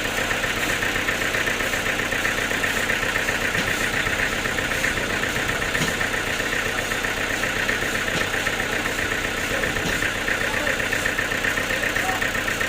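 Sawmill machinery's engine running steadily with a fast, even pulsing.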